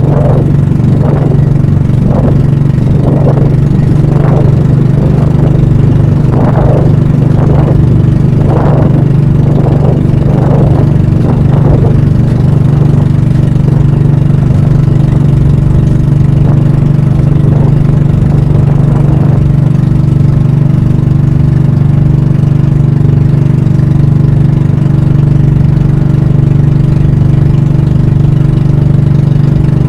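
Pump boat (banka) engine running steadily with a loud, even hum. For roughly the first half a surge comes about once a second, then fades out, leaving the plain engine note.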